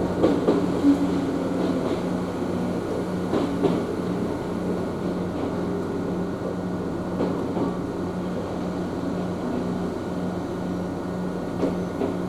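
Running noise inside an Ohmi Railway train cabin: a steady hum with the rumble of the wheels on the track and a few short knocks as the wheels pass over rail joints.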